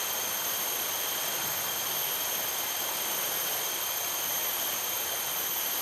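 Steady hiss of rain falling, with thin, steady high-pitched tones over it.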